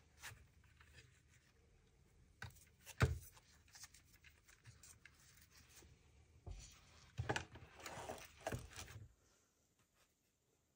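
Small handling sounds during a repair of a blood pressure monitor's cable: a few scattered clicks and taps, then a cluster of rubbing and scraping about two-thirds of the way through.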